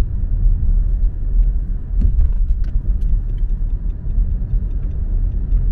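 Road noise inside a moving car: a steady low rumble of engine and tyres, with a few faint clicks about two seconds in.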